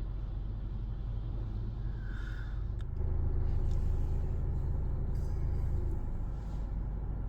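Steady low rumble of automatic car wash machinery, swelling louder about three seconds in and easing again near the end.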